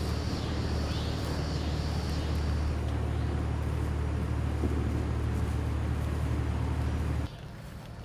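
Steady low rumble of a motor vehicle's engine running, which cuts off abruptly about seven seconds in.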